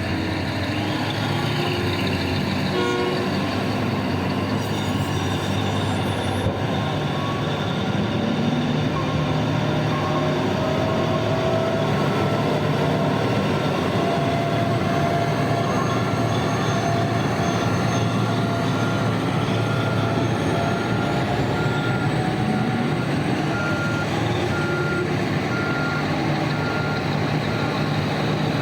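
Heavy diesel mining machinery (a loading shovel and BelAZ dump trucks) running under load, the engine pitch rising and falling at times. From about two-thirds of the way in, a reversing alarm beeps steadily about twice a second.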